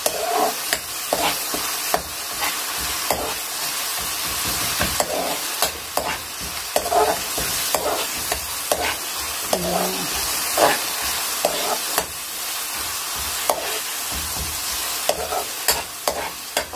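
Masala sizzling in oil in an aluminium karahi while a metal spatula stirs it, scraping and knocking irregularly against the pan.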